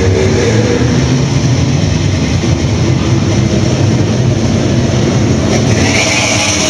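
Race cars' engines running at low speed in a steady, deep rumble as two cars drive slowly off.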